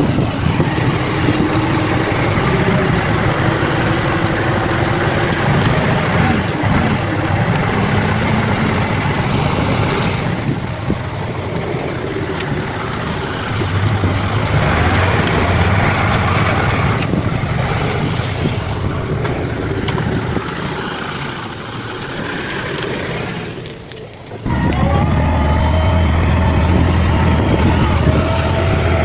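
Bulldozer's diesel engine running as the machine works, its pitch and loudness shifting. The sound changes abruptly several times, with a brief dip and then a louder, deeper stretch near the end.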